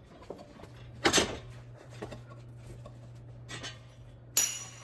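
Knocks and clanks of metal tools and parts during work on a car in a garage: a sharp knock about a second in, a lighter one later, and a loud clatter with a metallic ring near the end, over a steady low hum.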